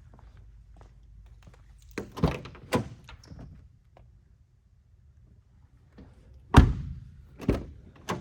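Pickup truck door being worked: a few clicks and thunks about two seconds in, then a loud door slam about six and a half seconds in, followed by two smaller knocks.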